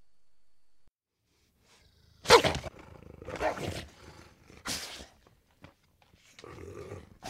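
An animal giving four short, harsh barking or growling calls, the first the loudest, after about two seconds of near silence.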